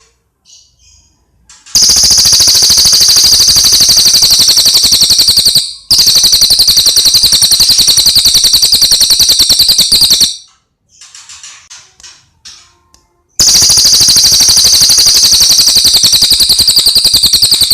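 Brown cililin bird singing long, very rapid, high-pitched rattling trills, each held for about four seconds. There are three trills, with a few short, faint notes in the gaps between them.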